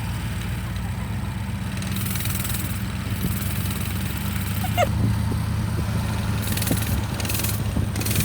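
Small vehicle engine running steadily at low speed, a constant low hum.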